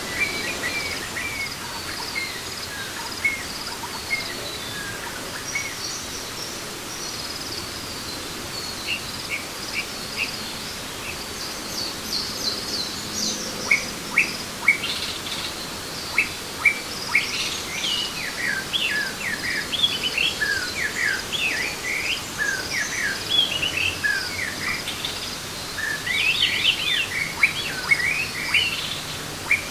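Rainforest birds chirping in many short calls over a steady background hiss. The calls are sparse at first and grow busier from about halfway through.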